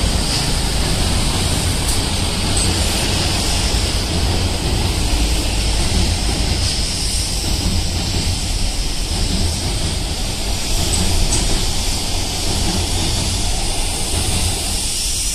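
Two coupled JR 205 series electric commuter trains running across a steel girder bridge overhead: a loud, steady rail noise that holds unbroken throughout.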